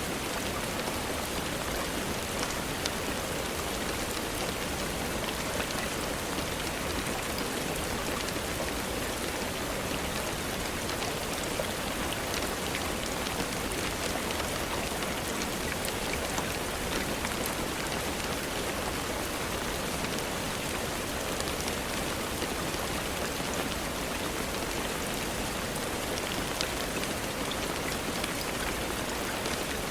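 Steady rainfall, an even hiss of rain falling on a surface, with scattered faint ticks.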